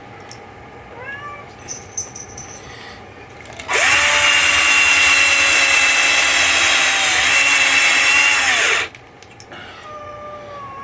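A power drill runs for about five seconds, starting nearly four seconds in, spinning up at the start and winding down at the end. A cat meows a few times before and after it.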